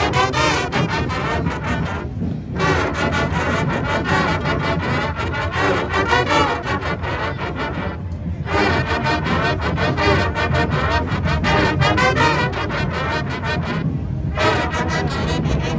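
High school marching band playing on parade: brass with drums, the horns breaking off briefly three times, about every six seconds.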